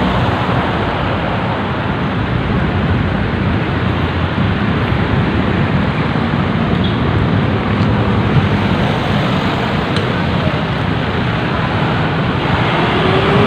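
Steady rush of road traffic noise and wind on the microphone, heard while riding a bicycle along a road.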